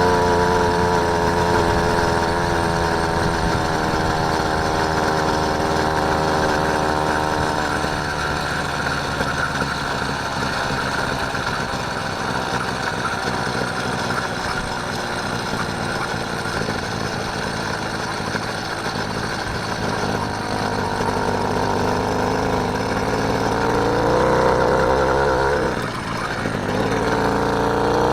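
Small engine of a motorised bike running while riding. Its revs drop over the first several seconds, hold lower and rougher through the middle, and climb again near the end after a brief dip.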